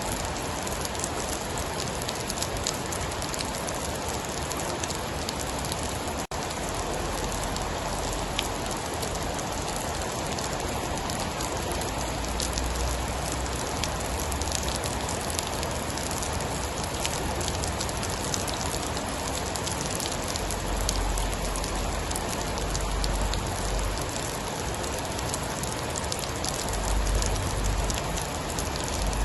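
Steady, heavy rain falling on a surface, a dense even patter. Low rumbles swell up a few times in the second half.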